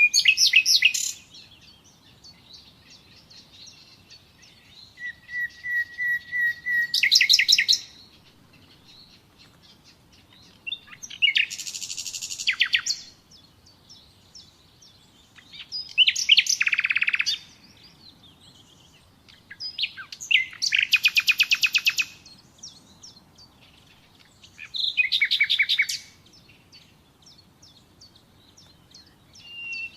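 Common nightingale singing: short, loud phrases of rapid repeated notes and trills, about every four to five seconds with pauses between. One phrase opens with a held, steady whistle before breaking into a fast trill.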